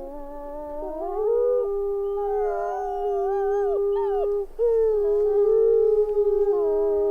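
A pack of wolves howling in chorus: several long, overlapping howls at different pitches, some gliding up and down, with a brief break about four and a half seconds in.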